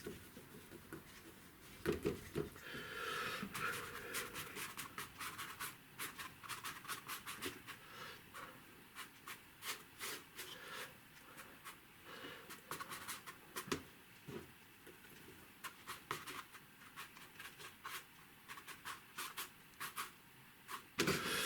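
Paintbrush working wet watercolour across paper: faint soft swishes and many small irregular taps and scratches of the bristles on the sheet.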